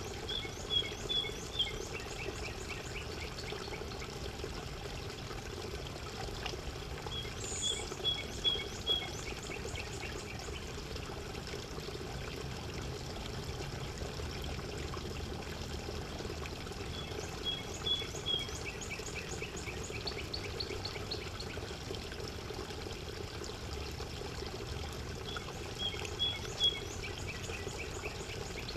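Spotted towhee singing four times, about every eight or nine seconds: each song is a few short clear notes followed by a fast buzzy trill. A steady sound of running water lies underneath.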